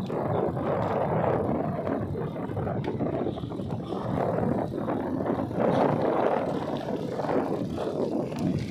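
Wind rushing and buffeting over the microphone of a rider on a moving road bike, rising and falling in gusts.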